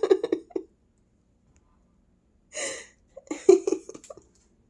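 A woman laughing in short choppy bursts: a chuckle at the start, a sharp breath about two and a half seconds in, then another burst of laughter.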